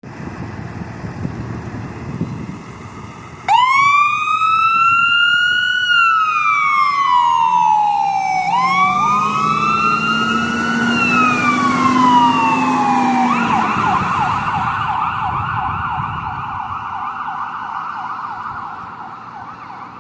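Ambulance electronic siren cutting in suddenly a few seconds in with a slow wail that rises and falls twice, then switching to a fast yelp that slowly fades as the vehicle moves off. Low traffic rumble before the siren starts, and a vehicle engine drone rising under the second wail.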